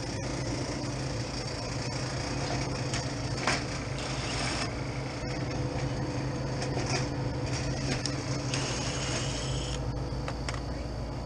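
An old freezer's condensing unit running with a steady low hum from its fans, while rubbing, scraping and a few light knocks come from hands working around the equipment.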